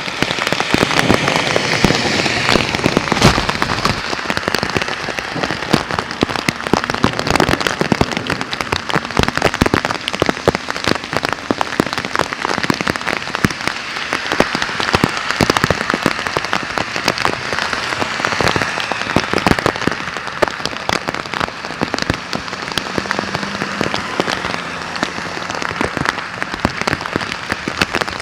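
Heavy thunderstorm rain falling steadily, with a dense patter of close, sharp drop hits throughout.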